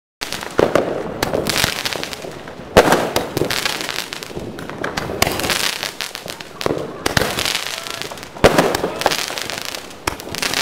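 New Year fireworks going off one after another: a string of sharp bangs with crackling in between, the two loudest bangs about three seconds in and again past eight seconds.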